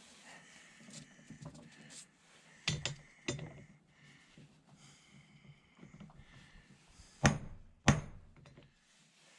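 Hammer blows driving a wheel bearing into a steel wheel bearing housing: a few sharp knocks about three seconds in, then two louder ones about half a second apart near the end.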